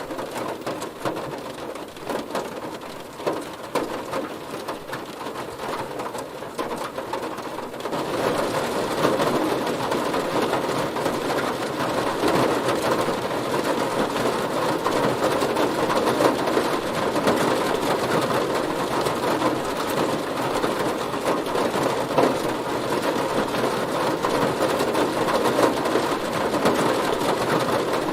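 Rain drumming on a car's body: a lighter patter of separate drops at first, then about eight seconds in the rain turns heavier and denser and stays steady and loud.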